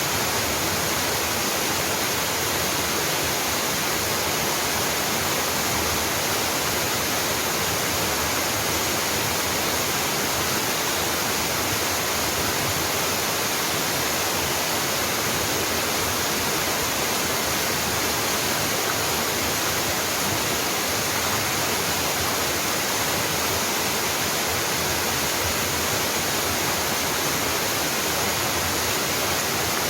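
Small mountain waterfall pouring into its pool: a steady, unbroken rush of falling water.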